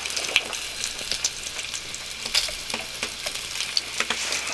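Breakfast sausage links sizzling in a frying pan: a steady hiss with scattered crackles and pops of spitting fat.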